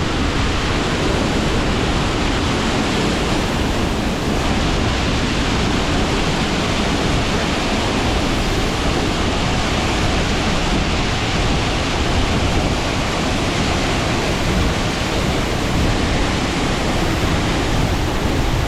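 Waterfall in spate, swollen with typhoon rainwater, its falling water making a loud, steady rush with no let-up.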